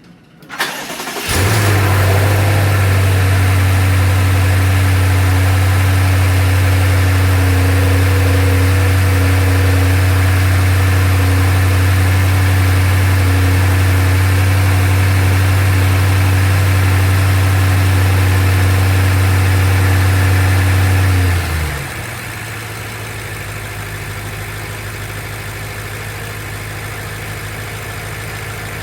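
BMW M550i's twin-turbo 4.4-litre V8 started after an oil change with fresh oil. It catches about a second in and runs at a loud, steady raised idle. About 21 seconds in it drops abruptly to a much quieter, lower idle.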